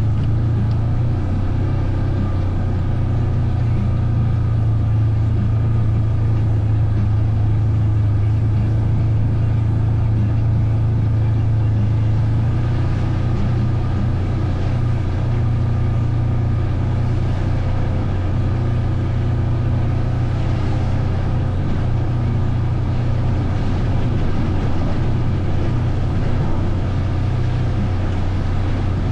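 A vehicle's engine running steadily at an even pitch while being ridden, with no big revs or changes in speed.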